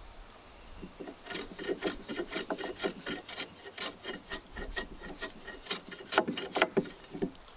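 A hand tool working a heavy wooden timber with quick rasping strokes, about four or five a second. The strokes stop just before the end, and the last few are the loudest.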